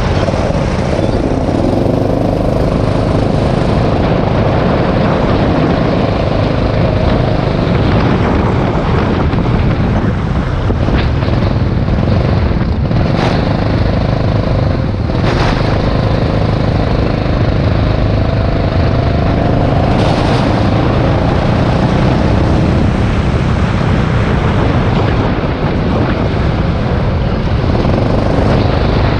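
Rental go-kart engine running hard on a wet track, its pitch rising and falling with throttle through the corners, with a few brief sharp noises along the way.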